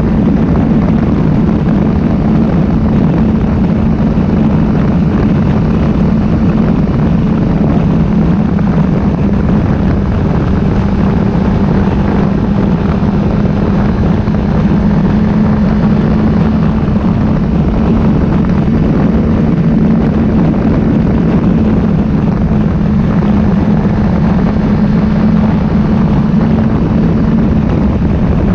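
Motorcycle running steadily at an even speed, its engine hum under loud, constant wind and road noise.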